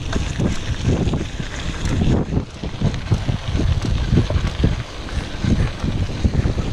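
Wind buffeting the microphone of a moving bicycle, in uneven low gusts, with rumble from riding the trail.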